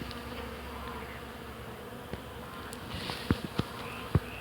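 A swarm of bees buzzing steadily while foraging in flowering hawthorn, a continuous hum. A few short clicks come in about three seconds in.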